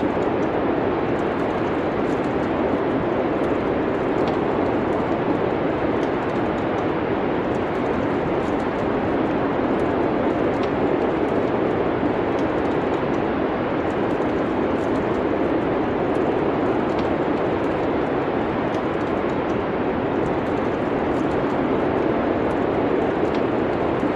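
Steady rushing wind noise of a winter storm, with faint, scattered crackles from a wood fire.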